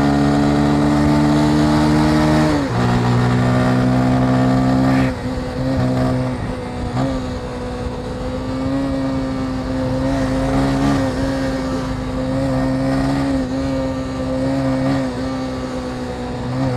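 Motorcycle engine running under way, its pitch climbing slightly and then dropping sharply about two and a half seconds in. About five seconds in it eases off and runs on steadily at a lower level, with small rises and dips in pitch.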